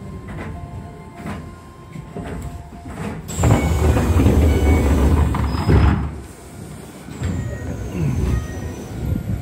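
Keisei electric train rail noise: a loud rush of wheel and track noise for about three seconds, starting a few seconds in. Thin high squeals fall in pitch, once at the start of the rush and again near the end.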